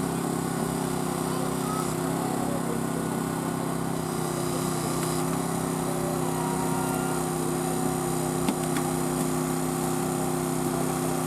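Small engine running steadily at a constant speed, with a faint click about eight and a half seconds in.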